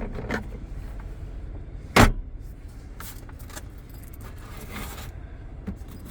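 Centre-console storage lid being handled in a pickup cab: a few light plastic clicks and one sharp knock about two seconds in, as of the lid shutting, over a steady low rumble.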